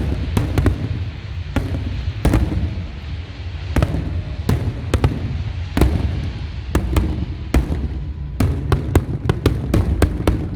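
Fireworks display: sharp bangs at irregular intervals over a continuous low rumble, coming in a quicker cluster near the end.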